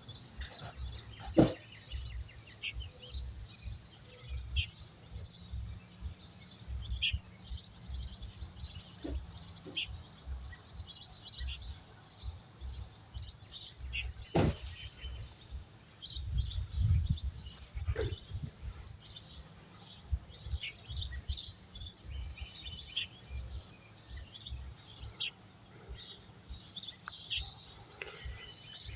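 Small birds chirping over and over in short, high notes, over a low rumble, with a few sharp clicks.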